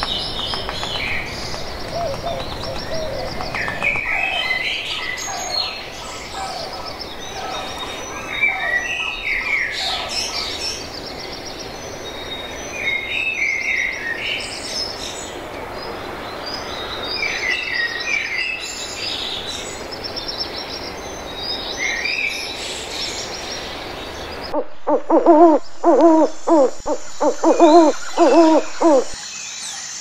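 Several birds chirping and trilling over a steady outdoor hiss. Near the end the sound cuts to a louder run of about eight low calls from a single bird, about two a second.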